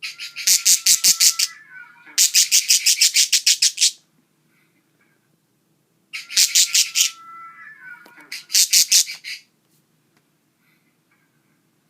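Pet budgerigar chattering in four bursts of rapid, harsh pulsed calls with short pauses between them.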